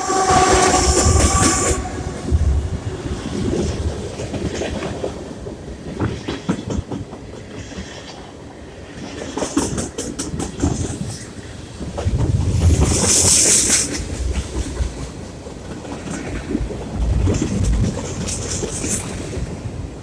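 Diesel freight train: a horn sounds for about two seconds at the start, then the wheels clatter over the rail joints, with the rolling noise swelling louder twice.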